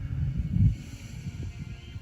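Low rumbling noise on the microphone, swelling loudest about half a second in, under faint background music with steady held notes.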